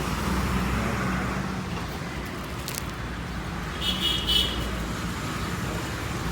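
Road traffic noise with a vehicle engine running steadily, and a short high-pitched horn beep about four seconds in.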